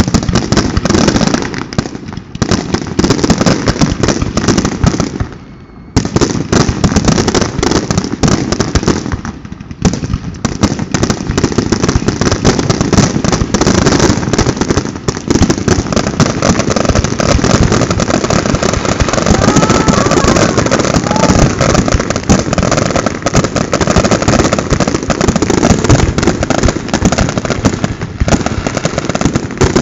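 Fireworks going off in a rapid, continuous barrage of bangs and crackle, loud throughout, with a brief lull about six seconds in.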